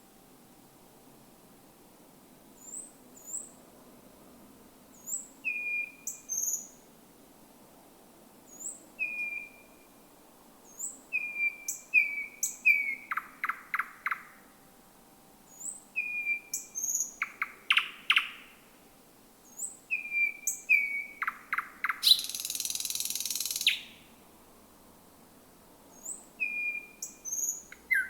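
Thrush nightingale singing, phrase after phrase separated by short pauses: short clear whistles and high thin notes, dry clicking rattles, and a harsh buzzing note lasting about two seconds about three-quarters of the way through.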